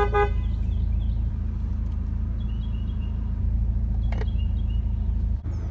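Steady low rumble of a car on the move. The last instant of a car horn's toot is heard at the very start.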